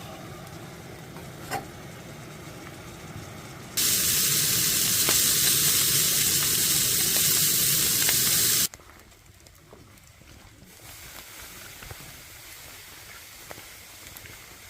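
A steady hiss heard in separate spliced segments. It is moderate at first, then much louder for about five seconds in the middle, cutting in and out abruptly, then quieter, with one sharp click early on.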